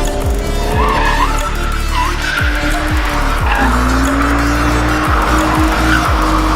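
BMW E46 330Ci's M54B30 straight-six running hard as the car drifts, tyres squealing, mixed with background music.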